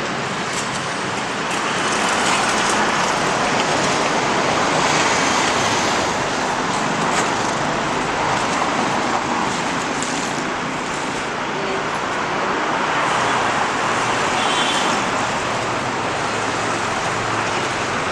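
Steady road traffic noise, vehicles passing on a busy road, swelling and fading as they go by.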